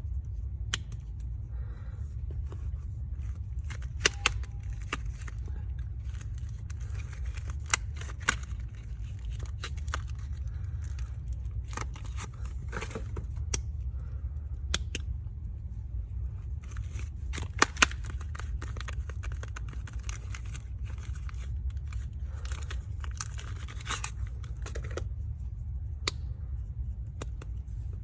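Bars of soap being unwrapped by hand: packaging crinkling and tearing in irregular crackles and sharp clicks, over a steady low hum.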